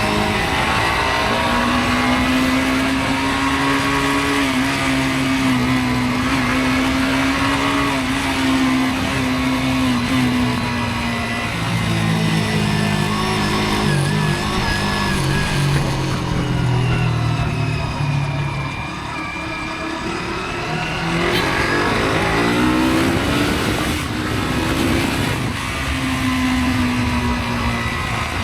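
Motorcycle engine running while riding, over a haze of road and wind noise. The engine note holds steady, drops lower about twelve seconds in, eases off and goes quieter near twenty seconds, then rises again as it accelerates.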